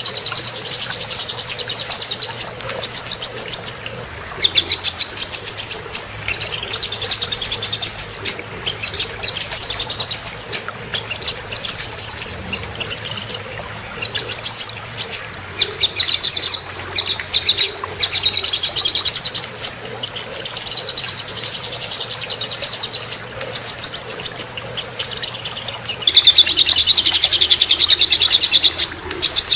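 Small songbird singing fast, high trilled phrases, each a second or two long with short pauses between them, repeated throughout.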